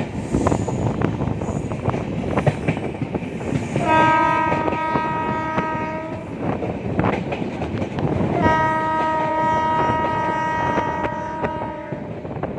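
Moving passenger train with its wheels clattering over the rails, and the locomotive horn sounding two long steady blasts, the first about four seconds in and the second, longer, about eight seconds in.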